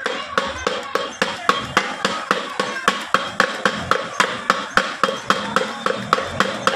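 Rapid, even hammer taps on metal, about four strikes a second, each with a short metallic ring.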